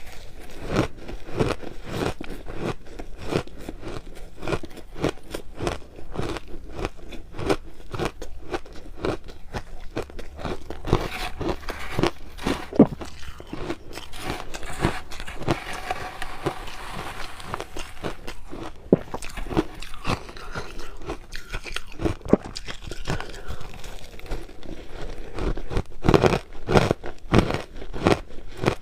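Ice being bitten and chewed close to the microphone: a dense, irregular run of crisp crunches with no pause.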